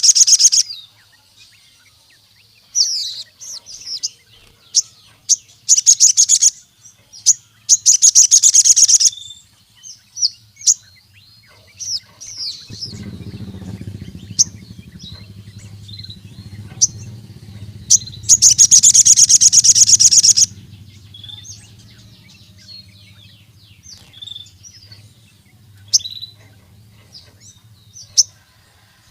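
A sogon sunbird singing in full voice. It gives rapid, high, buzzy trills of one to two seconds, four times, with quick sharp chirps in between. A low hum runs underneath from about halfway on.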